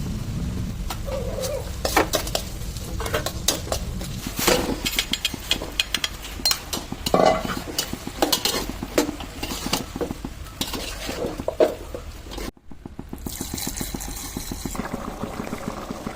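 Chicken curry being stirred in a pan: a spoon knocks and scrapes against the pan over a frying sizzle. The sound cuts off abruptly about three quarters of the way through, and a steadier cooking noise follows.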